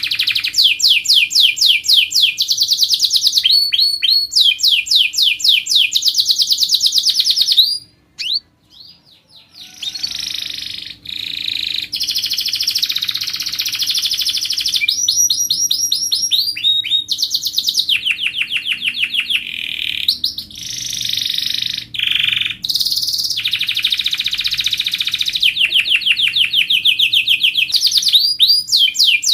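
Domestic canary singing a long song of fast trills, each a rapid run of repeated notes, switching from one trill to another every few seconds. The song breaks off for about two seconds roughly a quarter of the way through, then carries on.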